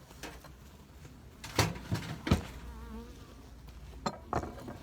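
Honeybees buzzing faintly around an open-air beehive, broken by several sharp knocks, the loudest two about a second and a half and two seconds in, and two more near the end.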